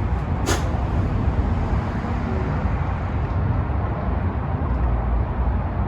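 Steady low outdoor rumble like distant traffic or wind, with one sharp click about half a second in.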